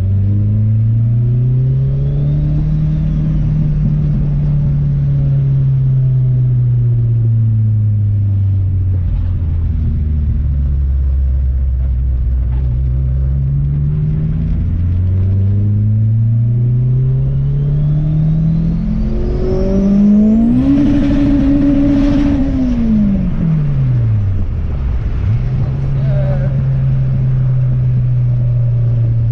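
Turbocharged LS-VTEC four-cylinder of a Honda Civic, heard from inside the cabin while driving. The engine note rises and falls gently, then about 20 seconds in it revs hard up to a high pitch, held for about two seconds, with a thin high whine rising just before the peak. The revs then drop away and settle to a steady cruise.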